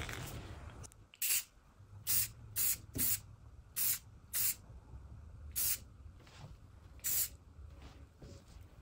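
Eight short hissing sprays, each a fraction of a second long, at uneven intervals.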